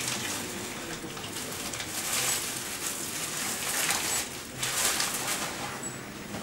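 Songbirds calling at a winter feeding spot, with a few short high chirps.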